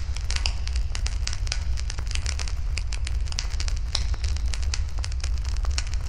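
Wood fire burning in a fire pit, crackling with frequent irregular sharp pops and snaps over a steady low rumble.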